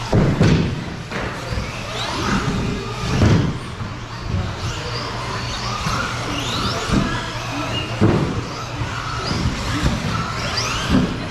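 Radio-controlled 1/10 stadium trucks running on a track: several short, high motor whines rise and fall as the trucks accelerate and brake, over a low rumble, with a few sharp knocks from landings or impacts.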